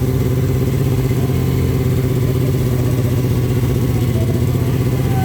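Motorcycle engine running steadily at an unchanging speed, its exhaust pulsing rapidly and evenly.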